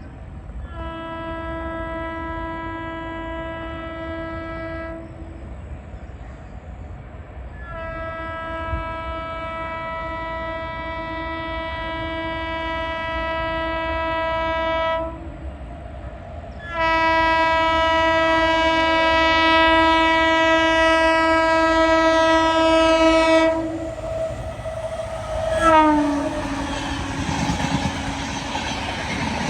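WAP7 electric locomotive's horn sounding three long steady blasts as the express approaches; near the end the horn pitch drops suddenly as the locomotive passes, and the rush and wheel clatter of the coaches going by at high speed follows.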